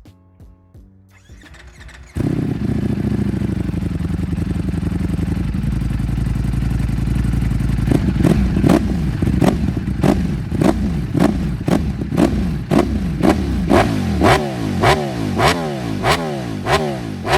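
Four-cylinder sportbike engine catching about two seconds in and idling, then blipped over and over from about eight seconds in: sharp revs that rise and fall roughly twice a second.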